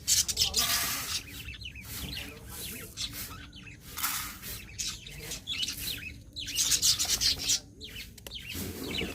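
Pet parakeets chattering and chirping in scratchy bursts of a second or so.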